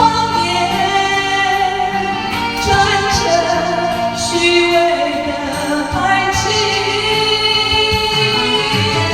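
A woman singing a slow Mandarin pop ballad over instrumental backing.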